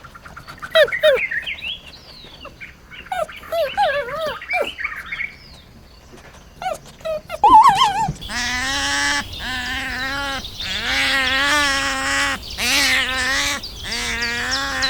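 Birds chirping in quick, twisting notes, then about eight seconds in a run of loud, harsh animal calls, each held just under a second and repeated about once a second.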